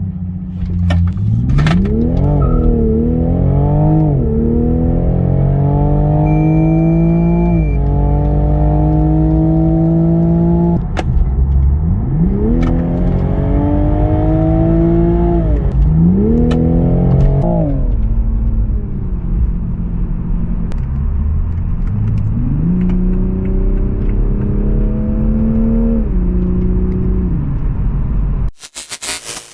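Toyota GR Supra's engine and exhaust under hard acceleration, the pitch climbing and then dropping sharply at each upshift through several gears, with a few stretches of steady running in between. The sound cuts off abruptly near the end.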